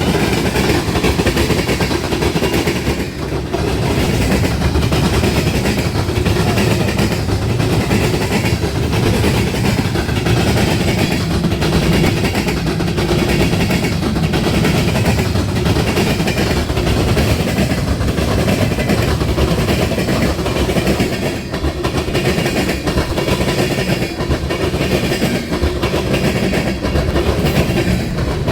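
A train's cars rolling past, the wheels making a steady rhythmic clickety-clack over the rail joints and the diamond crossing.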